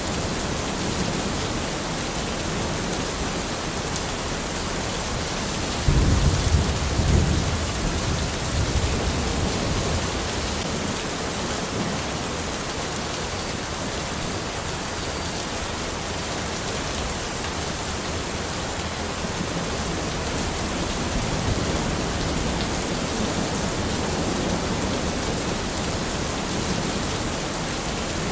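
Steady rain falling, with a low rumble of thunder starting about six seconds in and dying away over a few seconds.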